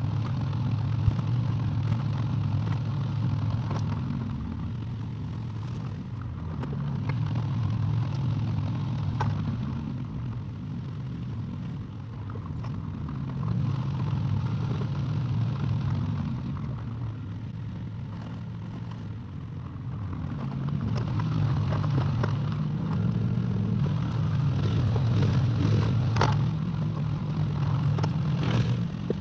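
Excavator engine running, swelling and easing every several seconds as it works under load, with clatter and scraping from the digging.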